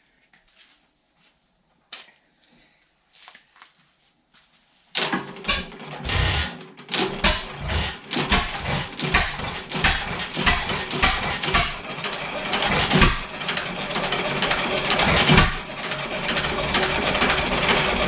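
7 hp Stickney hit-and-miss engine being bump-started: after a few faint clicks, it catches about five seconds in and runs with a loud, fast clatter of knocks.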